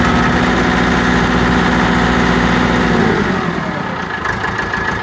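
Massey Ferguson 275's Perkins four-cylinder diesel engine running at raised revs, which fall away about three seconds in. It is running with a miss, which the owner puts down to an injector starving one cylinder of fuel.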